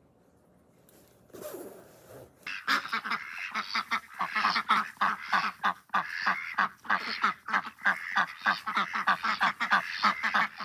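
A flock of farm poultry calling loudly and continuously, several calls a second. The calling starts about two and a half seconds in, after a short rustle of noise.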